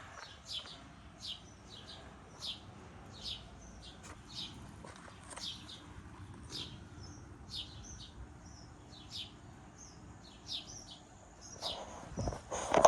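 Small birds chirping in the yard: short, high, slightly falling chirps repeated about once a second. A brief louder knock near the end.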